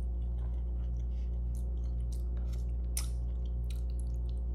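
A person chewing and biting into seafood boil and a crab leg, close to the microphone: scattered wet mouth clicks and smacks, one sharper click about three seconds in, over a steady low hum.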